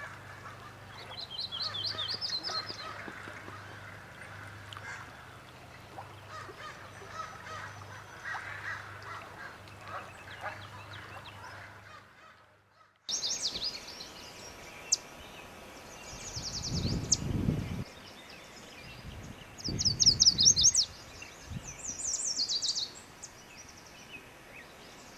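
Birds calling in short, high, rapid trills, heard in two separate recordings with an abrupt cut about halfway through. In the second part, low rumbling noise comes twice between the calls.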